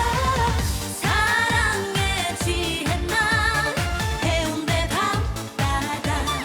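A woman singing a Korean trot song with vibrato over a pop backing track with a steady dance beat.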